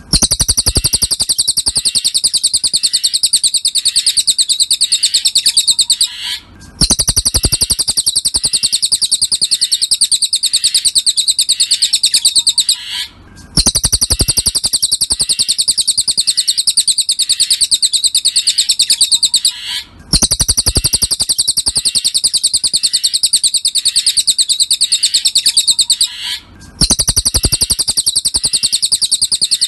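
Recorded song of a cililin songbird played as a masteran tutor track: a fast, unbroken stream of high, rapid chirps, looped about every six and a half seconds with a brief break between repeats.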